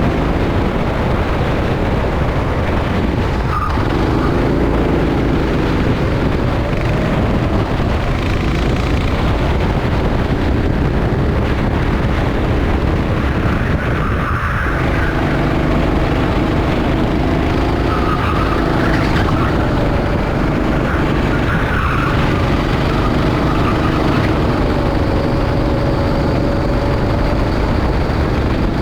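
Rental kart engine running at racing speed, its pitch climbing along the straights and dropping sharply three times as it slows for corners, over a steady low rush of wind and road noise.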